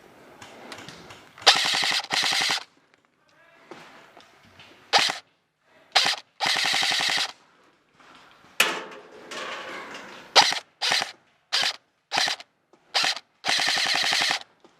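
Airsoft electric gun (modded G&G Combat Machine M4) firing on full auto: about a dozen bursts of rapid clicking shots, some only a few rounds and a few about a second long.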